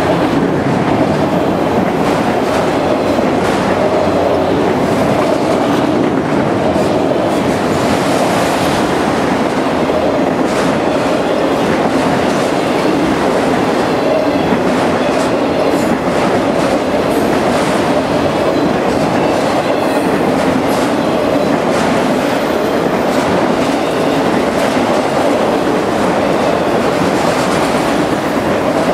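Norfolk Southern freight train of autorack cars rolling past at speed: steady, loud wheel-on-rail noise with scattered clicks as the cars go by.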